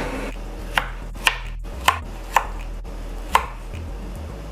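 A kitchen utensil clacks sharply five times at uneven intervals, each hit ringing briefly, over a low steady hum.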